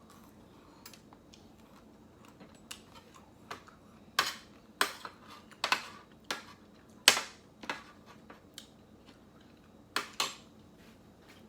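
Close-up eating of ice cream: a string of sharp cracks and clicks, about eight distinct ones, the loudest around the middle, over a quiet room.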